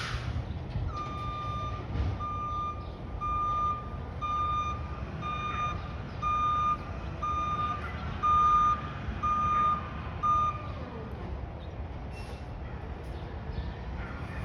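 Garbage truck's reversing alarm beeping about once a second, about ten beeps, over the truck's engine running; the beeps stop about two-thirds of the way through.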